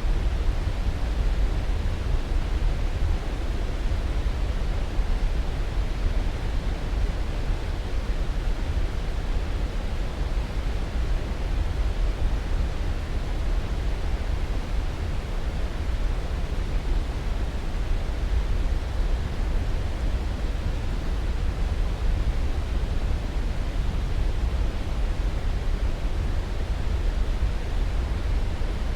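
Continuous pink-type noise played as a sleep aid: an even, unchanging hiss with most of its weight in a deep low rumble.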